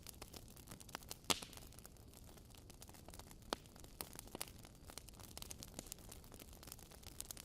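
Fire burning in a fireplace, crackling: a steady scatter of small sharp crackles over a soft hiss, with a louder pop just over a second in and another about three and a half seconds in.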